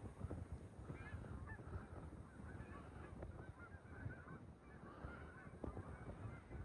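A flock of geese honking faintly, many short overlapping calls, over a low rumble of wind on the microphone.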